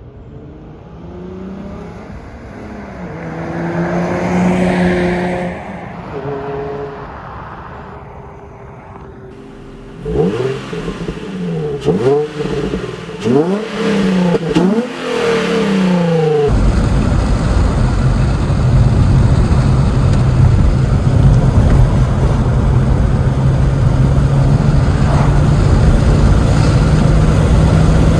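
Infiniti G35's V6 through a Motordyne TDX-2 Shockwave cat-back exhaust. The engine note rises and falls once, then comes a series of sharp revs climbing in pitch one after another. After an abrupt cut about two thirds of the way in, a steady loud drone runs with a heavy rush of noise.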